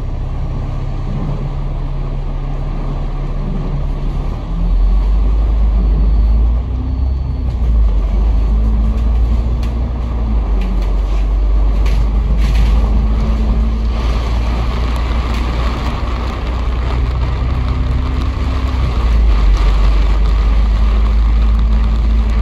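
A bus's engine heard from on board, running with a low steady note, then pulling away with a heavy low rumble that starts about four and a half seconds in, its pitch rising and shifting as it goes. A steady hiss of road noise runs under it.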